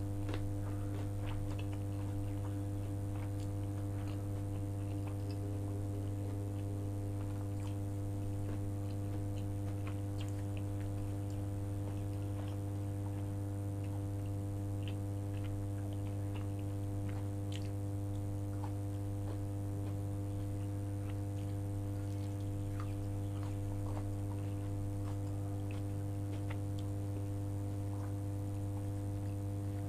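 Faint scattered clicks and smacks of chewing with the mouth closed, plus soft sounds of food being picked up by hand. Over all of it runs a steady low hum with a string of higher overtones, the loudest thing throughout.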